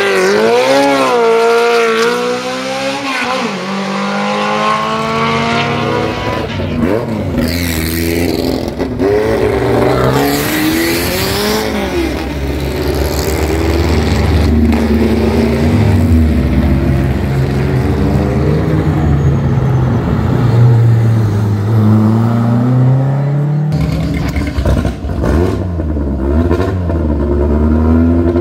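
Tuned Simca 1000 Rallye race car's rear-mounted four-cylinder engine revving hard, its pitch climbing and dropping again and again through gear changes and lifts. About 24 s in the sound changes abruptly to a different engine note.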